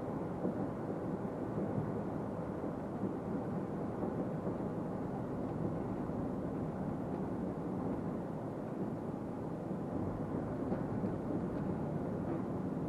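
Steady engine and road noise of a truck on the move, heard from inside the cab.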